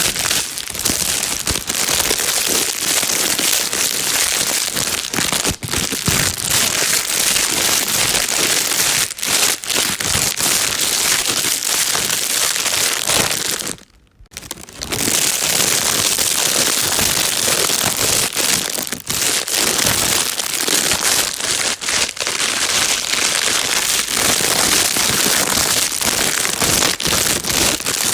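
Plastic bag being crinkled and rustled continuously, a dense crackling noise used as white noise to calm a baby. It stops for a moment about halfway through, then carries on.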